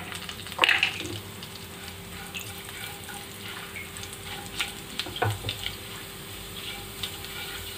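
Cumin seeds sizzling and crackling in hot oil in a non-stick wok as they are stirred with a silicone spatula. A few louder knocks of the spatula against the pan come near the start and again around five seconds in.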